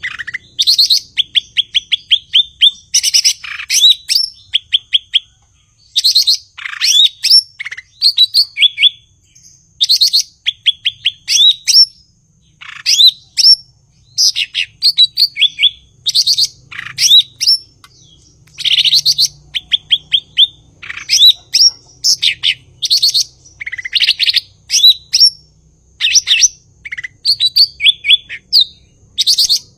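Cucak ijo (green leafbird) singing: a continuous series of short phrases of rapid chirps and trills with sharp rising whistles, each phrase lasting under a second with brief gaps between them.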